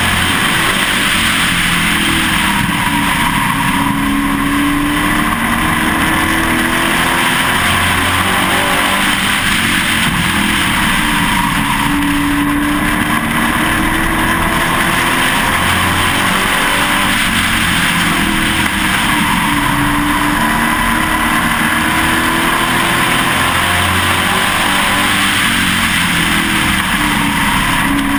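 Pro Truck race truck's engine heard on board, running hard at racing speed. The engine note climbs and drops in a repeating cycle every four to five seconds, over steady wind and road noise.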